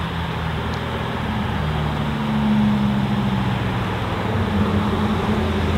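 Lamborghini Huracán STO's naturally aspirated V10 running at low revs as the car rolls slowly. The pitch rises a little about two seconds in and then settles back.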